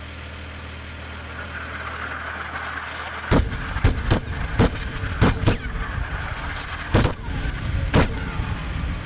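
A rapid string of about eight sharp bomb blasts, starting a little over three seconds in, over a steady low drone.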